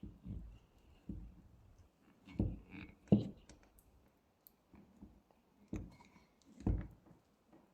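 Irregular knocks and clicks of objects being handled, four heavier thuds among lighter taps.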